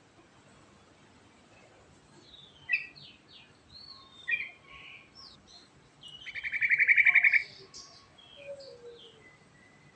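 Yellow-vented bulbul song: after a quiet couple of seconds, a string of short varied chirps and whistles, then a loud rapid trill of about ten notes a second lasting over a second, followed by a few softer scattered notes.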